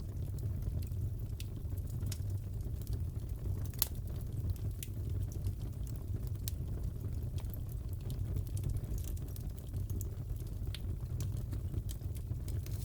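Wood fire crackling in a fireplace: irregular sharp pops and snaps over a steady low rumble of burning, with a louder pop about four seconds in.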